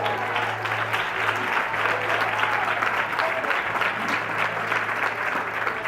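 A congregation clapping and applauding, a dense, steady patter of many hands, over a steady low hum.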